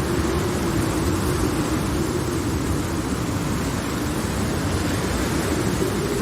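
Steady rain ambience, an even hiss with no thunderclaps, with a low hum running through it that wavers slightly in pitch.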